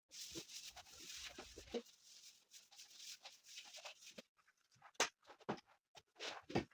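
Household cleaning handling noises: a few seconds of rustling or wiping hiss, then several light knocks and taps of objects being set down or moved.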